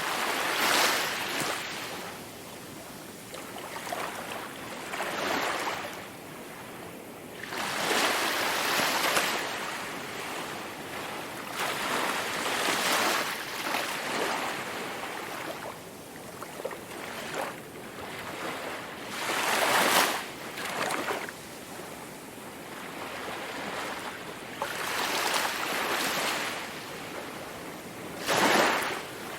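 Sea waves breaking on a shore: a wash of surf that swells and fades every few seconds.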